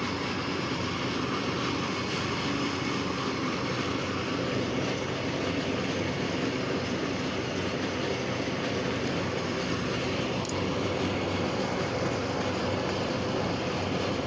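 Lathe machine running steadily, a continuous mechanical hum with a few faint steady tones in it.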